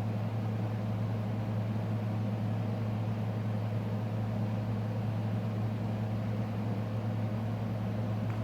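Steady low background hum with a faint hiss, unchanging throughout, like a fan or electrical equipment running.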